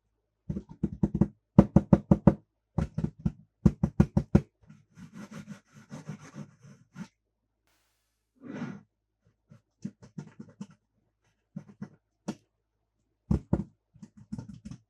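Rapid runs of sharp clicks and knocks, then softer scattered taps: hard toy cars and their plastic packaging being handled and knocked together.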